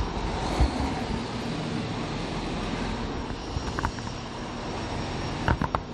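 Large diesel rally trucks running steadily at the start line, a low engine hum under a wide noise. A few short knocks near the end.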